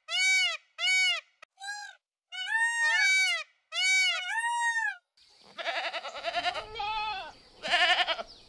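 Peafowl calling in a quick series of about seven short, loud, arching cries. About five seconds in, goats take over with bleating, and a wavering bleat near the end is the loudest.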